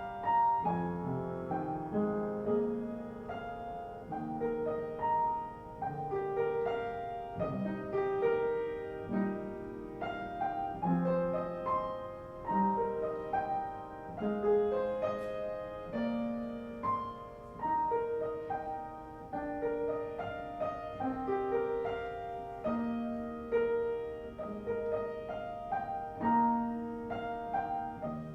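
Solo piano music, a calm piece of steadily flowing notes.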